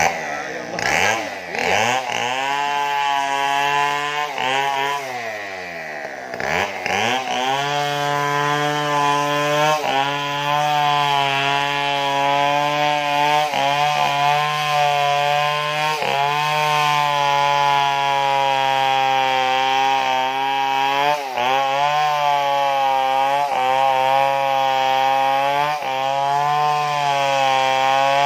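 Stihl chainsaw engine revving up and down for the first several seconds, then held at high revs as it cuts into wood, the pitch dipping briefly every few seconds under load.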